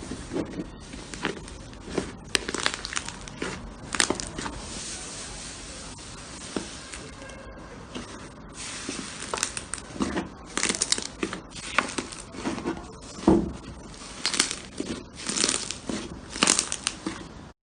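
Hands squishing and poking slime: irregular sticky pops and crackles in clusters, the loudest about thirteen seconds in. The sound cuts off abruptly near the end.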